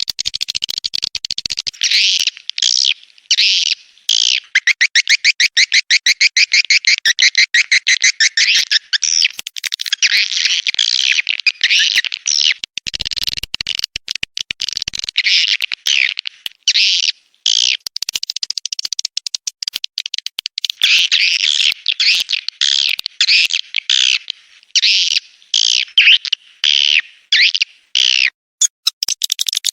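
Edible-nest swiftlet calls: a dense, continuous twittering of chirps with a long run of rapid, evenly spaced chirps early on. The track is a 'birahi' (courtship) call recording used to lure swiftlets.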